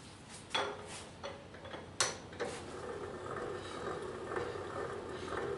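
Milling machine's Z axis being raised with the hand crank: a few sharp clicks, the loudest about two seconds in, then a steady ticking mechanical run as the crank and screw turn.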